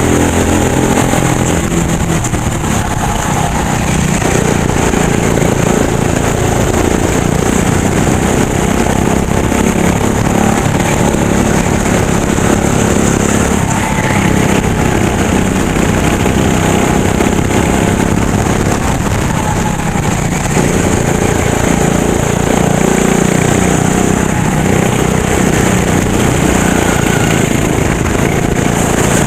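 Racing go-kart engine at full race pace, its pitch rising and falling repeatedly as the kart accelerates and slows through the corners.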